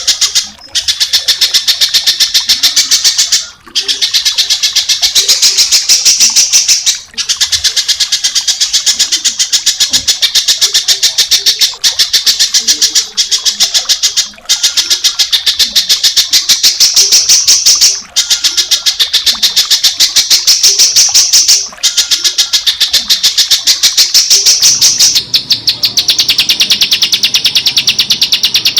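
Small songbird singing a fast, high chattering trill of rapidly repeated notes, in long phrases broken by brief pauses every few seconds. A low background rumble comes in near the end.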